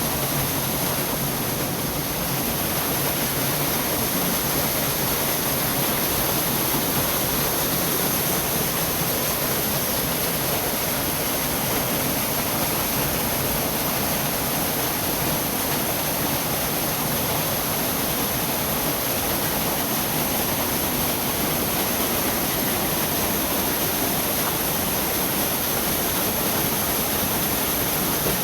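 Loud, steady rush of a mountain river's water tumbling through a gorge, an unbroken roar of white water.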